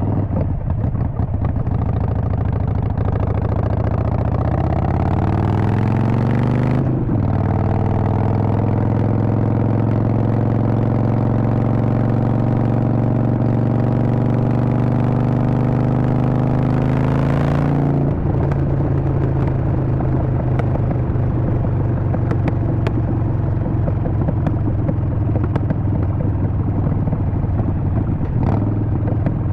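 Harley-Davidson Sportster Forty-Eight's 1200 cc V-twin running under way: revs climb for several seconds, break off briefly about seven seconds in, then climb slowly and steadily. About eighteen seconds in the throttle closes and the engine drops to a lower, rougher running.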